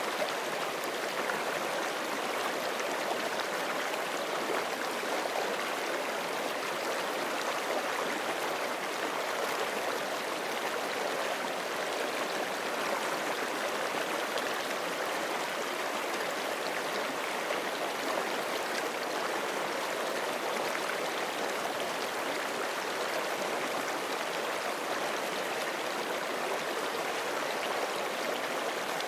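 Forest creek flowing over rocks, a steady, even rushing and burbling of running water.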